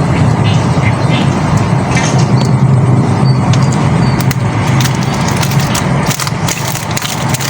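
A motor running steadily with a low drone, with a run of sharp clicks in the second half.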